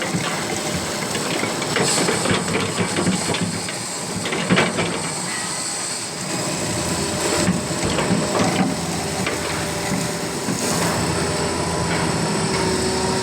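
Excavator diesel engine running steadily, with scattered metallic knocks and clanks from the machine working; the loudest knock comes about four and a half seconds in.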